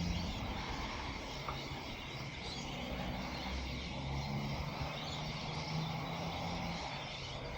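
Steady outdoor background noise: a constant hiss with a low drone underneath that wavers slightly in pitch.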